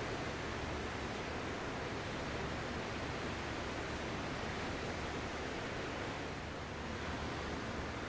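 Ocean surf: a steady, even wash of breaking waves with no distinct crashes, easing slightly near the end.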